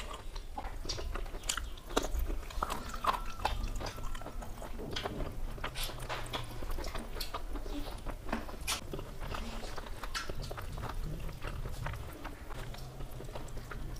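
Two people eating rice and curry by hand: chewing and biting, with many small irregular clicks and wet mouth sounds.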